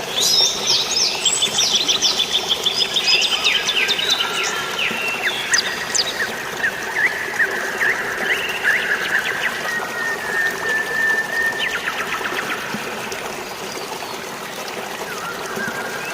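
Several birds chirping and trilling over a steady wash of water. The birdsong is busiest in the first six seconds and thins out later, with a quick run of rapid notes about twelve seconds in.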